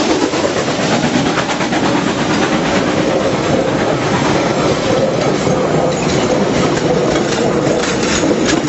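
Passenger carriages of a steam-hauled train rolling slowly past at close range on the climb, wheels clicking over the rail joints more often in the second half, over a steady rumble and rush of the running train.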